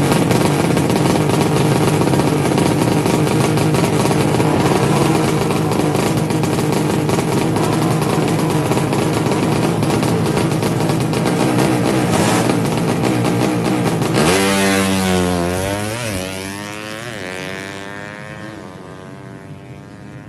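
Drag-racing motorcycle's tuned 200cc engine held at high revs, then about fourteen seconds in the bike pulls away, its pitch gliding down and up through gear changes and fading as it gets farther off.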